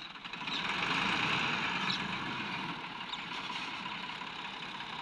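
Tractor engine running steadily, growing louder about half a second in for a couple of seconds before settling back.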